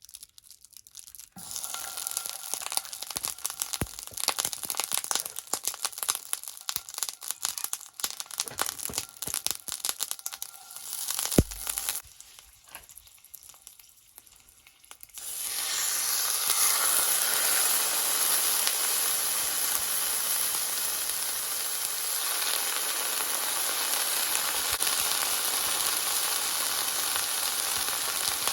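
Irregular crackling and popping, then after a short lull a sudden loud, steady sizzle: food, likely the roast beef, searing in hot oil in a skillet.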